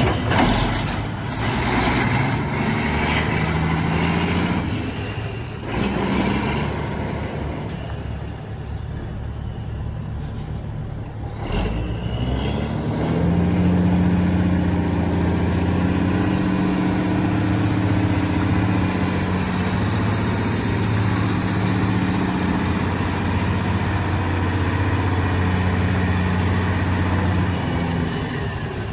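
Caterpillar diesel engine of a Freightliner tri-axle crane truck running. Its speed shifts in the first half, then it runs louder and steady from about halfway through.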